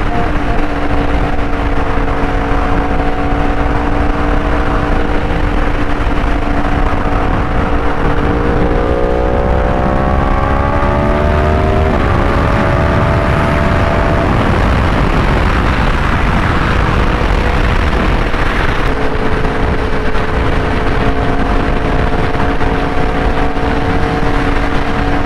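2023 Yamaha R1's crossplane inline-four engine at highway speed under heavy wind rush. About eight seconds in it revs up, drops in pitch at an upshift a little after that, and climbs again. It then eases back to a steady cruise.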